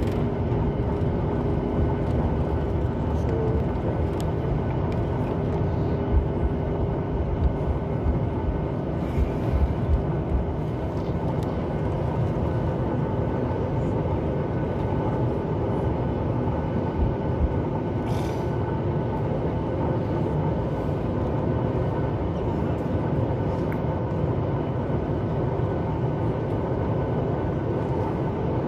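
Steady cabin noise of a Boeing 737 MAX 8 with its engines at idle, heard inside the cabin: a low rumble with a few steady tones in it, and a few soft low thumps between about six and eleven seconds in.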